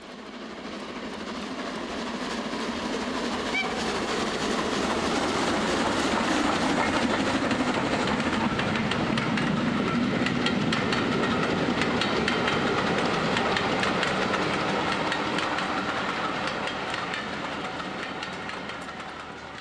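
A train running past with a rapid clickety-clack of wheels over the rail joints, swelling over the first few seconds and fading away near the end.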